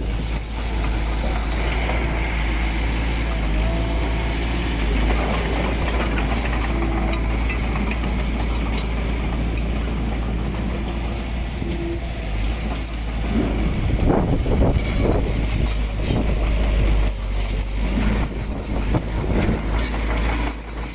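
Heavy diesel earthmoving machinery running steadily with a deep, unbroken rumble, and a cluster of knocks and clanks about two-thirds of the way through.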